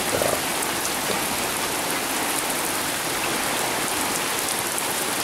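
Heavy rain pouring down steadily in a downpour, an even wash of drops on the surfaces around.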